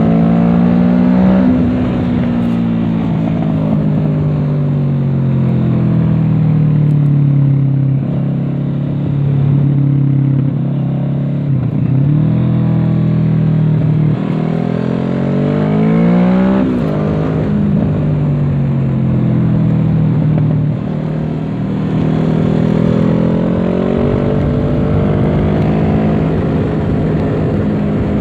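Kawasaki Z650's parallel-twin engine through an aftermarket Dominator exhaust, heard from on board while riding a race track. The engine note falls away as the throttle eases, then climbs steeply about midway and drops again at gear changes.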